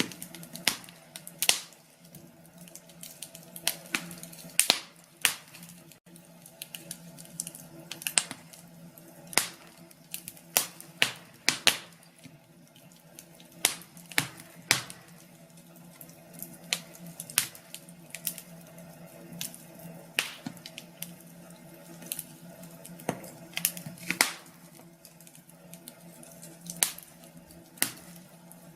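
Wood fire burning in a fireplace, crackling with irregular sharp pops and snaps at uneven intervals, over a faint steady hum.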